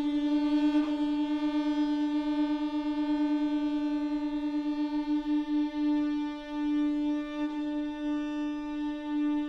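String octet holding a single sustained note in unison, pulsing rapidly in volume for about the first six seconds and then held more evenly.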